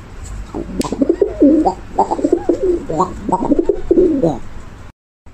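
Pigeon cooing, a run of repeated low coos over a low background rumble, cutting off suddenly about five seconds in.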